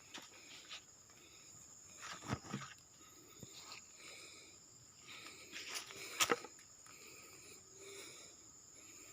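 Faint outdoor ambience: a steady high-pitched hum with scattered knocks and clicks, the loudest about six seconds in.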